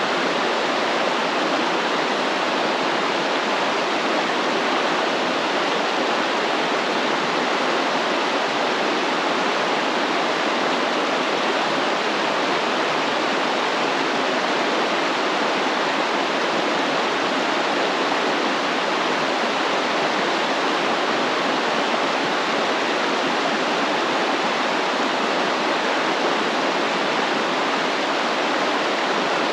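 Stream water flowing steadily, a constant rushing with no change in level.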